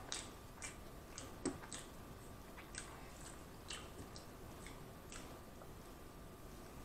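A person chewing a mouthful of Big Mac close to the microphone: faint, irregular wet mouth clicks and smacks.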